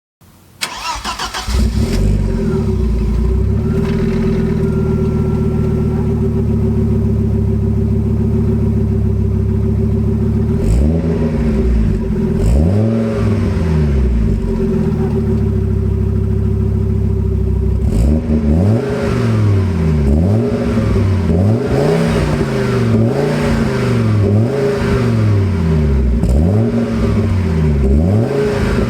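Audi S2 Coupe's 2.2-litre turbocharged inline five-cylinder starting through a Fox cat-back exhaust without a middle silencer. It catches about half a second in and settles to a steady idle. It is blipped a couple of times near the middle, then revved up and down repeatedly, about one rev every second or so, through the last third.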